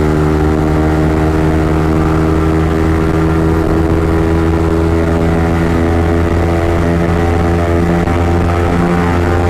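Yamaha MT-15's single-cylinder engine with an Akrapovic exhaust, running at steady revs while cruising: a constant engine drone with no change in pitch.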